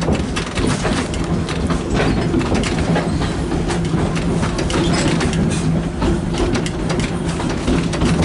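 Park excursion train on the rails, a steady low hum under rapid clicking and clatter from the cars and track.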